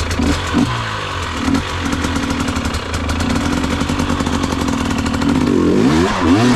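Enduro dirt bike engine under throttle on a climb: a few short blips of the throttle, then held at steady revs, then revving up and down near the end.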